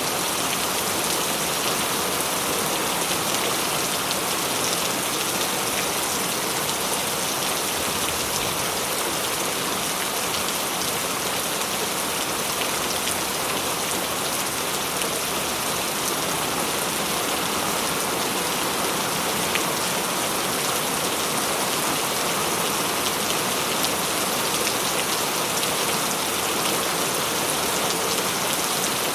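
Steady tropical rain falling, an even hiss of rain on surfaces with scattered individual drops, holding constant throughout.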